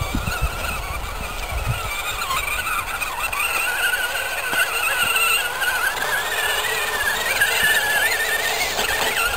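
A scale RC crawler truck's electric motor and gear drivetrain whining, its pitch wavering with the throttle and climbing slowly, with a few low thumps in the first couple of seconds.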